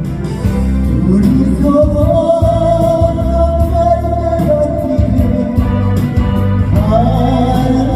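A singer performs a slow Korean ballad over a band backing track with guitar and organ. A long note is held for a couple of seconds early in the phrase, and a new line starts near the end.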